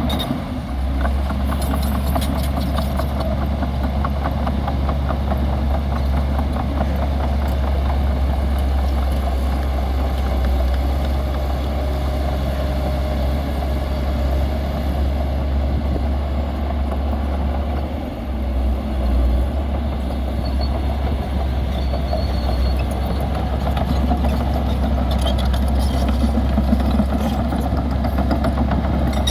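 Heavy diesel engine of earthmoving machinery running steadily with a strong low drone, dipping briefly about two-thirds of the way through.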